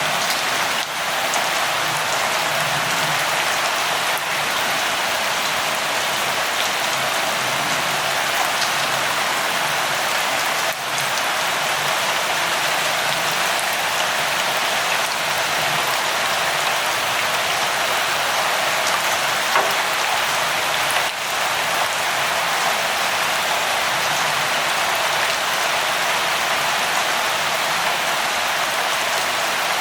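Steady light rain falling, an even continuous hiss of many drops with no thunder.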